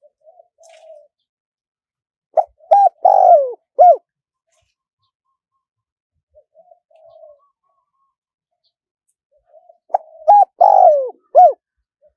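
Spotted dove song: soft, short low notes, then a loud phrase of three or four coos, the longest one falling in pitch. The pattern comes twice, about seven seconds apart.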